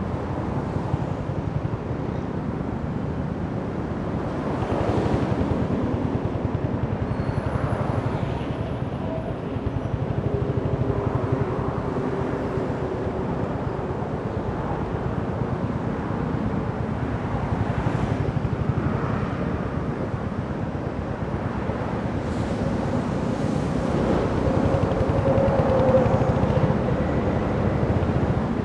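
Royal Enfield Hunter 350's single-cylinder engine running while the motorcycle is ridden, with road and wind noise. The engine swells louder about four seconds in and again near the end.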